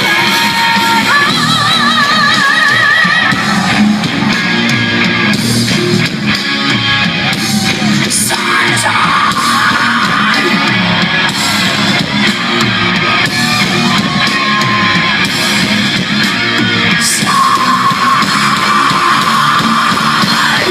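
Rock band playing live: an instrumental break led by electric guitar, with held, wavering lead notes over drums and bass, in a large hall.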